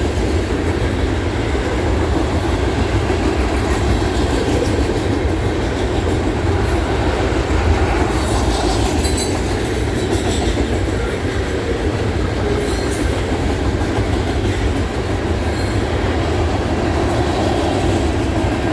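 Freight cars of a long, heavy trash train rolling past: a steady, loud rumble of steel wheels on rail, with brief high squeaks now and then.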